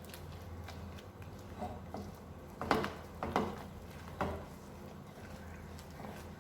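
A spoon stirring a thickening white sauce in a pan, with three short, louder scrapes about halfway through, over a steady low hum.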